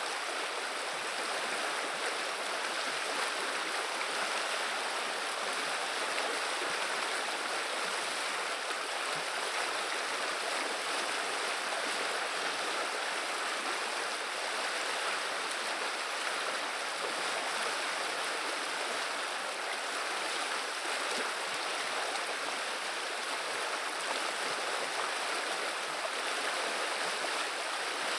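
Water of the Vilia river running steadily: an even, unbroken babble and rush of flowing water.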